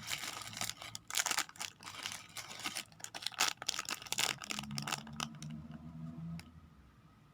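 Plastic toy packaging crinkling as it is handled, in rapid crackles for about the first four and a half seconds, then dying away.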